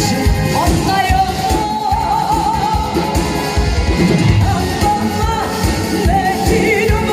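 A singer sings a song over backing music with a steady beat, holding long wavering notes.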